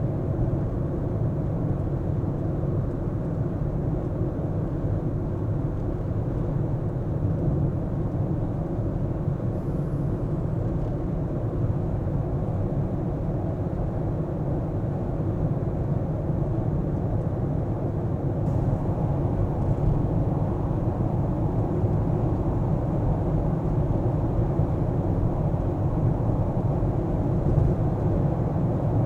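Car on the move: a steady low rumble of road and engine noise that stays even throughout.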